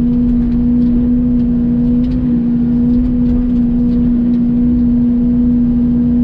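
Mini excavator engine running steadily at a constant pitch under working throttle, with a few faint scattered ticks over it.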